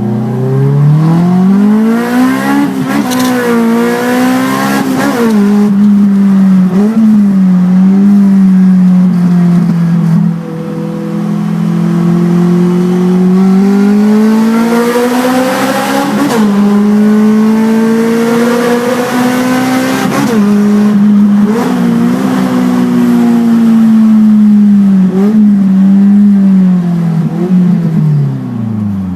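Honda Integra Type R DC2's B18C four-cylinder VTEC engine with a front-exit exhaust, heard from inside the cabin while driving. The engine note climbs under hard acceleration and drops back at each gear change, with several quick pulls a few seconds in and longer climbs around the middle and about two-thirds through, then falls away as the car slows near the end.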